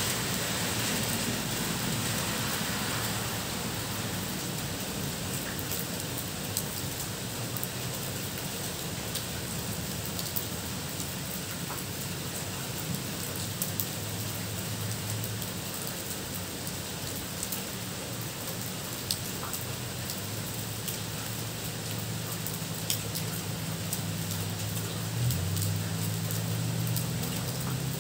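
Steady rain falling on a road and leafy trees, with scattered sharp drip ticks. A low hum joins in the second half.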